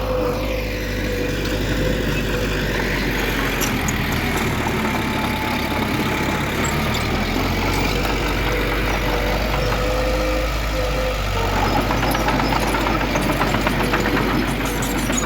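Diesel engine of heavy earthmoving machinery running steadily, with a thin steady whine over the rumble.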